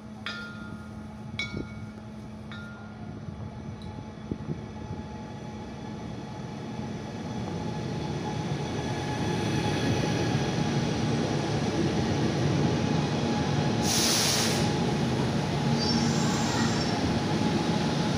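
Trenitalia ETR 425 'Jazz' electric multiple unit arriving along the platform, its rumble and wheel noise growing louder as it draws alongside and slows. A short burst of hiss about 14 s in, and a faint high squeal from the wheels or brakes a couple of seconds later.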